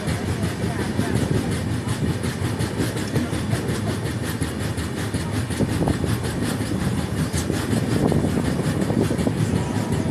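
Passenger train coach running along the track, heard from its open doorway: a steady rumble of wheels on rails mixed with rushing wind.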